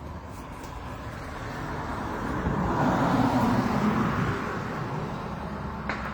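A car passing by: its road noise swells smoothly for about three seconds, then fades away. A short click comes near the end.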